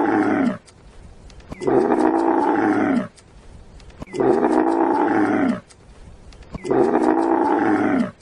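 Camel calling in long, deep bellows: the end of one call, then three more about every two and a half seconds, each lasting over a second and sagging in pitch at the end. The calls look identical, as if one recording is repeated.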